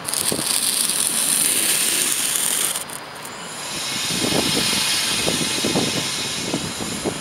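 A loud steady hiss that cuts off abruptly about three seconds in. Then a Swiss ETR 610 tilting passenger train rolling slowly through the points, its wheels clicking over the rail joints with a low rumble and a faint high squeal.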